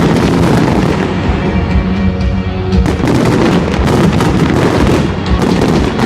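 Fireworks going off in a dense, rapid run of crackles and bangs, with music playing alongside.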